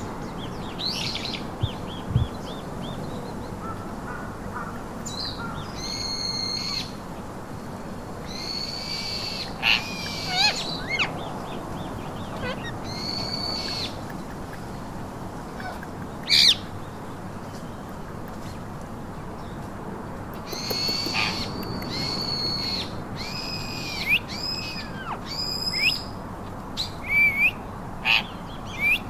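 Pet parakeets calling: a series of separate squawks lasting about half a second to a second each, with short quick chirps coming closer together near the end, over a steady background hiss.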